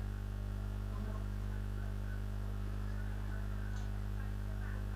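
Steady low electrical mains hum on the microphone line, a constant buzz with no other clear sound.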